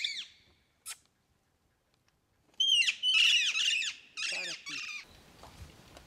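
Bird calls: one harsh call at the start, then about two and a half seconds in a loud, rapid run of harsh squawks, each dropping in pitch.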